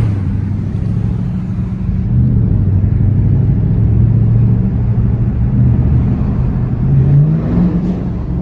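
Dodge Challenger's HEMI V8 idling steadily at a standstill, its revs rising briefly about seven seconds in.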